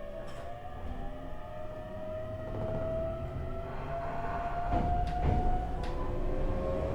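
JR East E127-series EMU motor car with a Toyo Denki GTO-VVVF inverter accelerating: several whining tones from the inverter, traction motor and gears glide slowly upward over a rumble of the running gear, with a few rail-joint clacks about five seconds in. This car's gear whine carries an extra tone a semitone above the usual one, the mark of a car with an abnormal noise.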